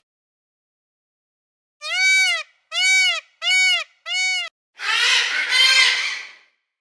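An animal calling: four short calls, each rising then falling in pitch, about two-thirds of a second apart, then a longer, harsher double call near the end.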